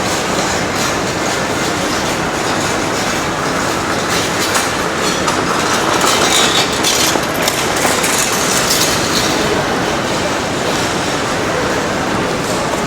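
A train passing with its wheels clattering on the rails. It is loudest around the middle, with a high wheel squeal, and eases off near the end.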